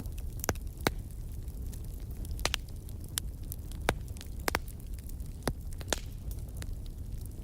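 Wood fire crackling and popping in a fireplace: irregular sharp pops, a few louder snaps, over a steady low rumble of the flames.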